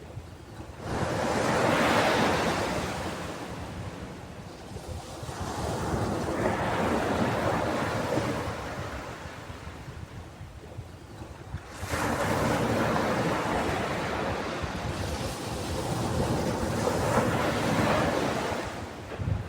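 Ocean surf: waves breaking and washing in four slow swells, each building and fading over a few seconds.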